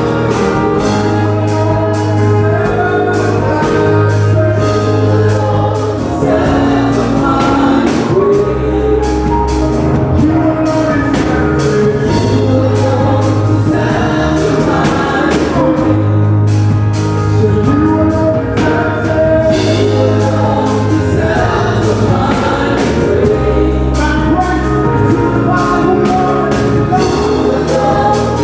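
Gospel worship music: a choir singing over bass and a steady drum beat.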